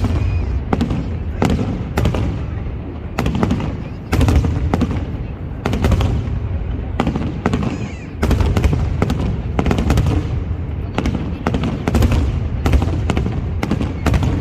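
Aerial fireworks display: a rapid, irregular string of sharp bangs, several a second, over deep booms rumbling underneath.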